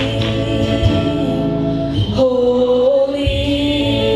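Worship song being sung: voices hold long, slowly wavering notes over a steady instrumental backing, moving to a new note about halfway through.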